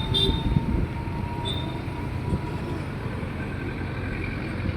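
Truck engines running in a traffic jam, a steady low rumble, with a short horn toot right at the start and a faint one about a second and a half in.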